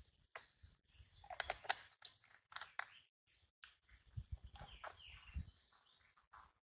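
Faint short high squeaks from a pet monkey, scattered among light clicks and taps, with a run of soft low knocks a little past the middle.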